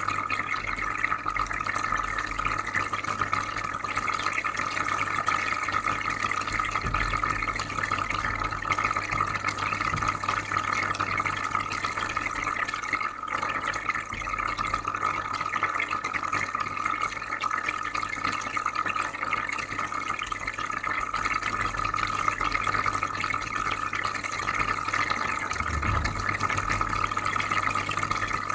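Aquarium filter running, with steady bubbling, trickling water and a low constant hum.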